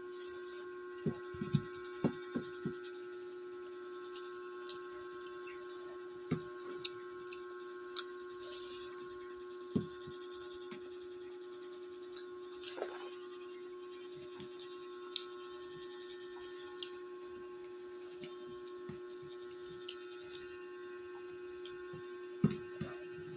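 Scattered short clicks, taps and mouth noises of eating by hand, over a steady electrical hum.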